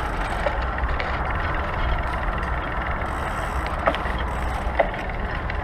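Steady rushing wind and tyre noise from riding a bicycle on the road, with a couple of faint clicks near the end.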